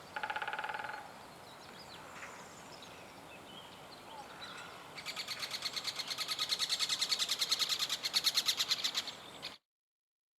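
Great spotted woodpecker drumming on a branch: one short, very fast roll of knocks lasting under a second. A few seconds later it gives a long series of quick, sharp, high 'kik' calls, about seven a second, which lasts roughly four seconds and then stops abruptly.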